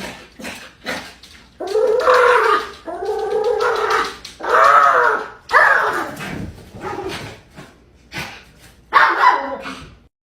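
A pet animal vocalising in a string of drawn-out calls that rise and fall in pitch, about half a dozen with short gaps between them.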